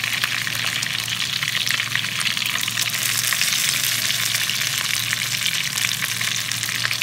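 Batter-coated chicken pieces deep-frying in hot vegetable oil in a pan, a dense, steady crackling sizzle of many tiny pops. Both sides of the pieces are fried through and crisp, ready to be lifted out. A faint low hum runs underneath.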